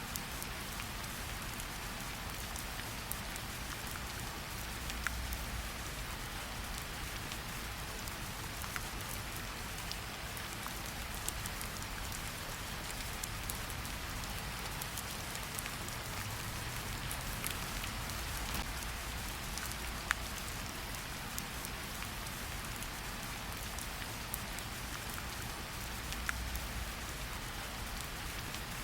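Steady rain falling, with scattered sharper drop ticks and a faint low rumble underneath.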